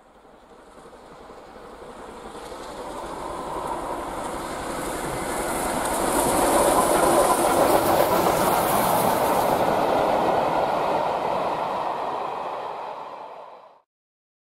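A train passing on rails, the rumble and clatter of its wheels building up from nothing, peaking in the middle and easing off before it cuts off abruptly near the end.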